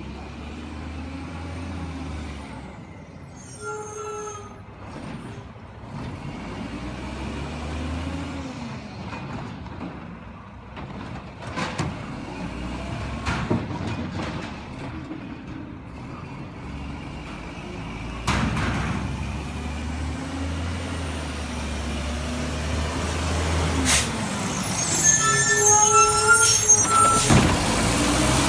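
Waste Management garbage truck running, its engine rising and falling in pitch, with a few sharp clanks. Twice, once about four seconds in and again near the end, there is a short spell of high-pitched squealing.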